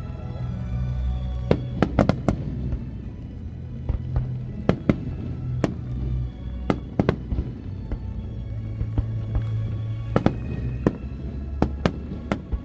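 Aerial fireworks shells bursting in a public display: irregular sharp bangs, often in quick pairs or clusters, over music.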